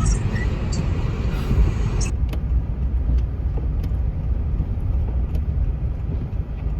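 Car driving on a snow-covered road with snow chains on its tyres, heard from inside the cabin: a steady low rumble of tyre and road noise, with a couple of faint clicks about two seconds in.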